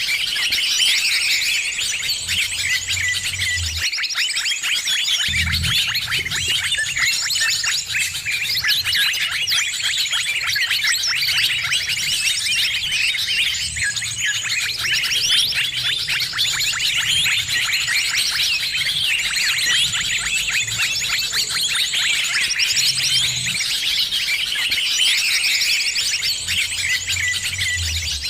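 A dense, noisy chorus of many small birds chirping and chattering rapidly and without pause, a recording used as a lure to draw in birds.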